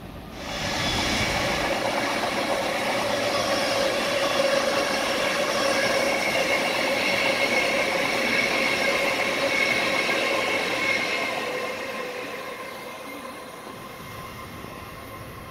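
Long Island Rail Road Kawasaki M9 electric multiple-unit train passing close by, with a steady whine of several high tones over the rumble of the wheels. It starts abruptly about half a second in and fades away over the last few seconds.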